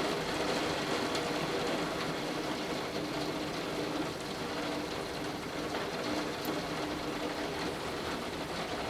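Torrential rain falling steadily as an even hiss, with water pouring off overflowing gutters. A faint steady hum sits underneath.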